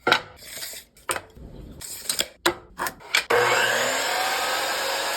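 Several sharp wooden knocks as boards are handled, then about three seconds in a power saw starts and runs steadily, cutting the piece to size.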